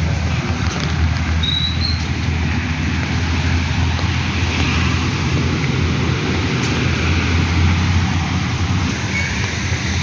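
Steady heavy rain hissing, with a low rumble underneath that swells through the middle and eases near the end.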